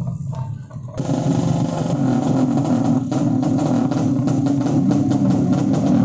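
Racing motorcycle engines revving. About a second in, music with a steady drum beat cuts in and runs over the engine noise.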